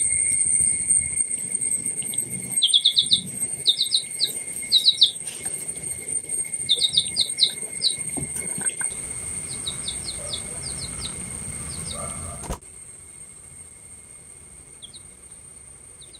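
Small birds chirping in quick runs of three to five short notes, thinning to a few single chirps in the last few seconds.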